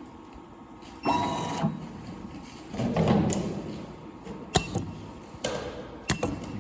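Semi-automatic USB cable soldering machine working through a step of its cycle to hold the connectors. A short mechanical whir comes about a second in and a longer one around three seconds, followed by several sharp clicks of the mechanism.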